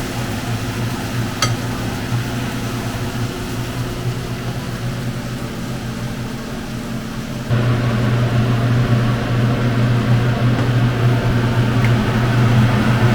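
Steady, fan-like mechanical hum that steps up louder about seven and a half seconds in.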